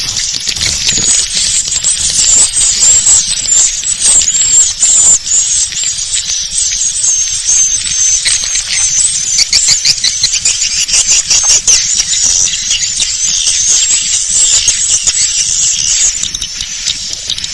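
Swiftlet lure call recording: a dense, continuous chatter of high chirps and rapid clicks from swiftlets.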